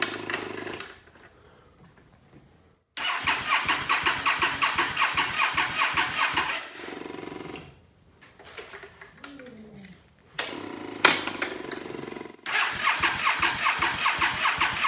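Yamaha V Star 650 Custom's electric starter cranking the V-twin in three bursts with an even chugging pulse, but the engine does not catch. It still will not start after a blown resistor was replaced; the owner suspects the CDI ignition module.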